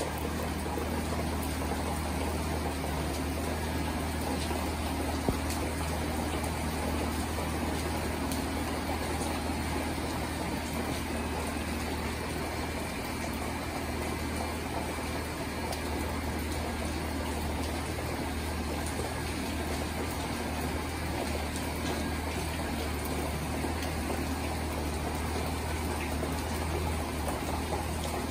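Steady rain falling, a continuous hiss of drops, over a constant low hum. One sharp tick about five seconds in.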